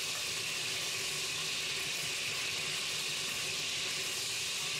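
Chicken thighs sizzling steadily as they fry in melted butter in a pot, turned over and cooking on their second side.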